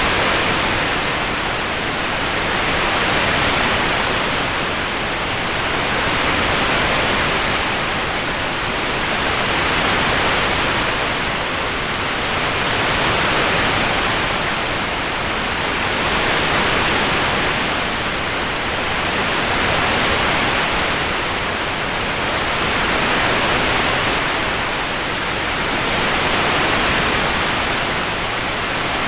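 Rain-sound background track: an even, continuous hiss with no separate drops, swelling and easing gently about every three seconds.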